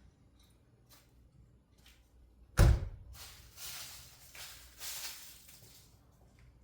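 A single loud thump about two and a half seconds in, followed by several seconds of rushing noise that swells three or four times.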